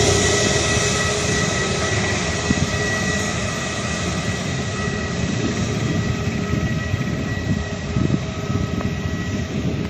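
Jet airliner's engines whining over a broad rumble, the steady tones and the rumble slowly fading as the aircraft moves away.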